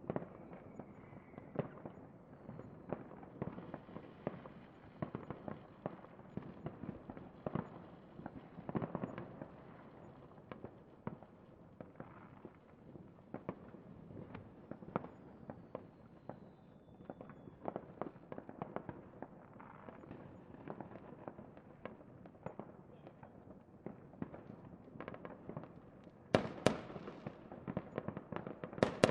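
Fireworks going off in a dense, irregular string of bangs and pops with crackle between them. Near the end, sharper and louder bangs start.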